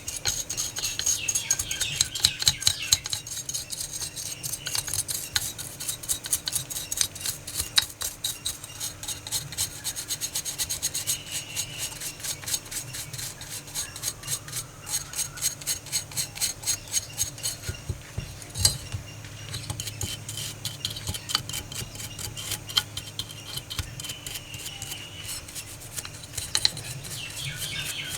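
Hand rasping on a metal toy car's body, steady back-and-forth strokes of about two to three a second, as with a file or abrasive scrubbing the metal.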